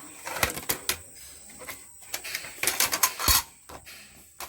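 A drawing tool scratching across paper in quick strokes, in two bunches: a few strokes about half a second in, then a denser run around three seconds in.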